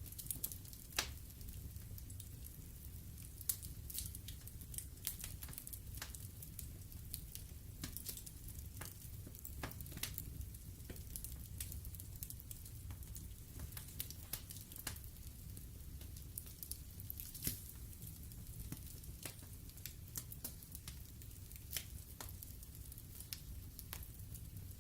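Wood fire burning in a fireplace: logs crackling with irregular sharp snaps and occasional louder pops over a low steady rumble of the flames.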